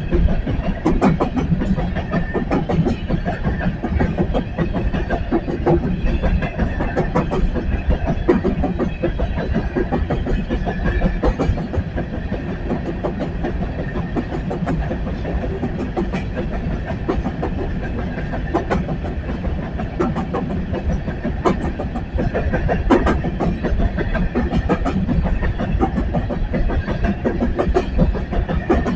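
A long BNSF coal train's cars rolling past, a steady rumble with many sharp wheel clicks and clacks over the rail joints.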